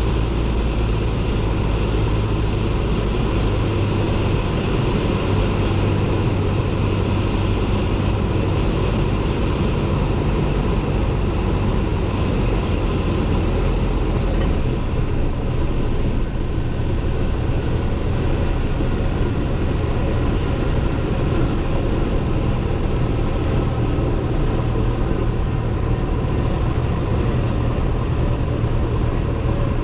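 Cessna 172N's four-cylinder Lycoming engine and propeller running steadily, heard from inside the cockpit. The engine note shifts lower a few seconds in, and the high hiss drops about halfway through.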